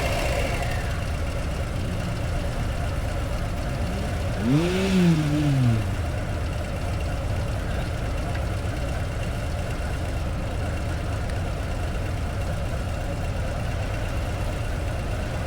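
Harley-Davidson Low Rider ST's 117 cubic-inch V-twin engine running steadily. About four and a half seconds in, a brief tone rises and then falls in pitch, the loudest moment.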